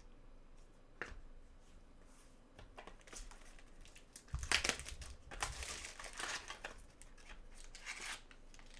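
Wrapper crinkling and tearing as a pack of trading cards is opened by hand, with a single click about a second in and the rustling loudest in the middle.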